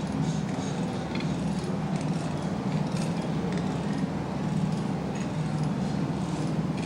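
A steady low mechanical drone with scattered light metallic clinks.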